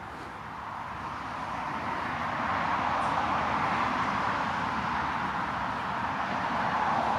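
Traffic on a nearby highway: the tyre and engine noise of passing cars, building over the first couple of seconds and swelling again near the end.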